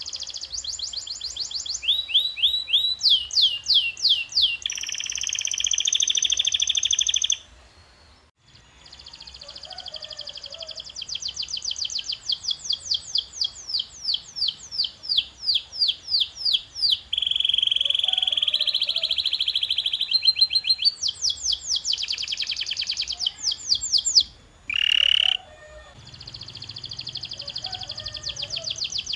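Domestic canary singing: fast tours of rapidly repeated sweeping notes alternating with buzzy rolls, high-pitched throughout. The song breaks off briefly about eight seconds in.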